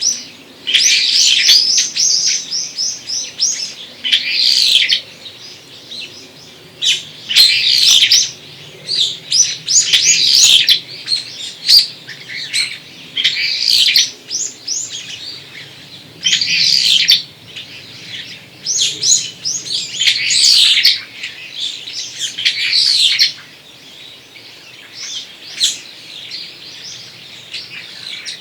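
Songbirds singing in short, loud phrases of rapid high notes, a new phrase every one to three seconds, over a faint low background hum of the forest.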